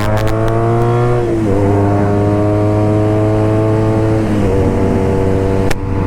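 BMW R nineT Racer's boxer twin, breathing through a BOS full exhaust with Boxercup muffler, accelerating hard through the gears. The pitch climbs, drops at an upshift about a second in, climbs again and drops at a second upshift past the four-second mark, then pulls on.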